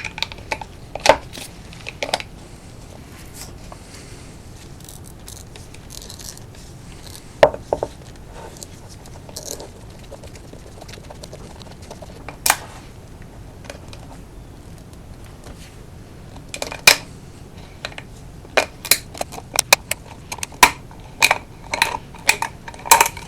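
Oil filter cutter being worked around a steel spin-on oil filter can to cut it open. It gives scattered sharp metallic clicks and clanks, which come closer together in the last few seconds.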